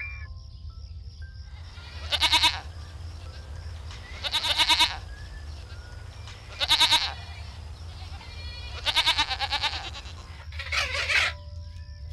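Livestock bleating: five quavering bleats, each about half a second long, coming roughly every two seconds.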